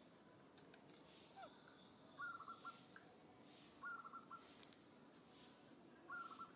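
A bird's short chattering call, a quick stutter of notes, repeated three times about two seconds apart, over a faint steady high-pitched insect whine.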